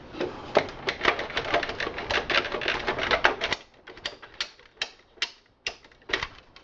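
Rapid clicking and rattling of plastic and metal as a hot-swap drive bay is worked out of a PC case, several clicks a second, thinning to scattered single clicks about halfway through.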